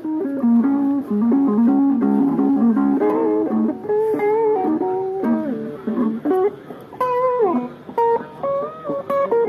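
Guitar music: a plucked melody line with notes stepping up and down and a pitch bend about seven seconds in.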